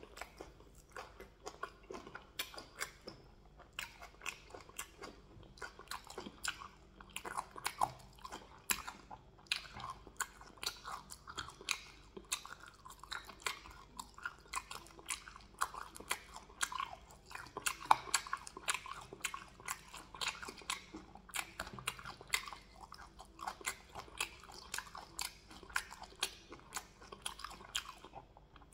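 Close-miked chewing of a mouthful of cow leg in waterleaf soup: many wet mouth clicks and smacks a second, with no pause.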